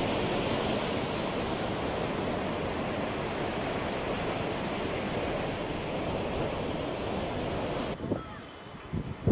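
Steady rushing noise of wind and water, cutting off abruptly about eight seconds in and followed by a quieter stretch with a few faint short sounds.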